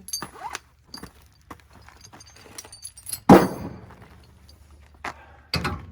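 Metal tow hardware being handled: scattered clinks and knocks, with one loud metallic clank about three seconds in and another heavy knock near the end.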